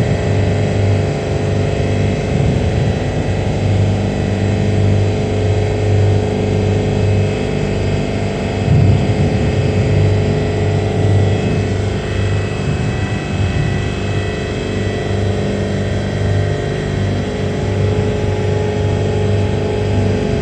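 A steady, loud mechanical hum with a low drone and fixed higher tones over a background wash, like a motor or engine running.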